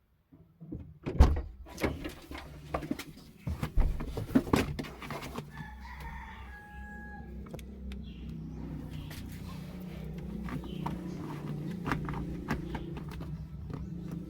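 A series of knocks and thumps, then one held pitched animal call, like a bird's, about six seconds in, over a steady low hum.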